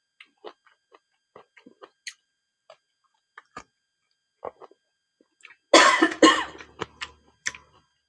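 Small wet clicks of chewing and lip-smacking close to the microphone, then two loud coughs in quick succession about six seconds in, followed by a few more mouth clicks.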